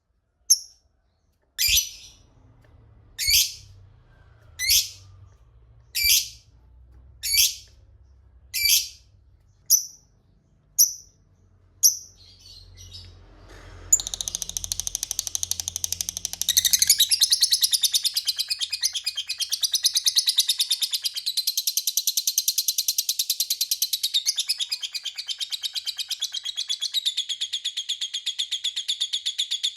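Lovebird calling: about nine sharp single shrieks roughly one and a half seconds apart, then, about halfway through, a long, fast, unbroken chattering trill (the 'ngekek panjang' long chatter) that grows louder a few seconds after it starts and keeps going.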